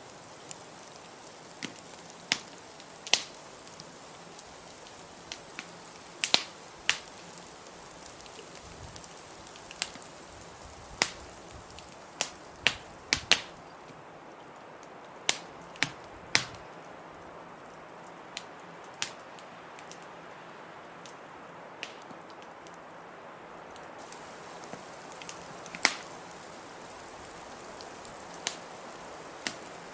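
Wood fire crackling in a fireplace, with sharp pops at uneven gaps, some louder than others, over a steady rush of blizzard wind.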